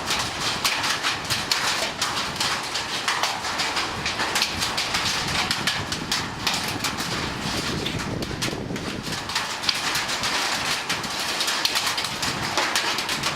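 Hail clattering on the roof of a car wash shelter overhead: a dense, steady rattle of countless small impacts.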